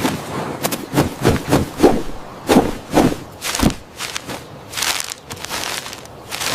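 A run of about a dozen short, irregular knocks and thuds, unevenly spaced.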